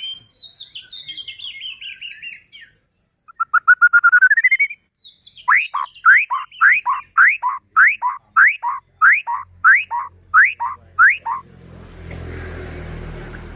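White-rumped shama singing: a fast run of falling notes, then a quick rising trill, then a long series of loud, repeated up-slurred whistles, about two a second. A low rumbling noise comes in near the end.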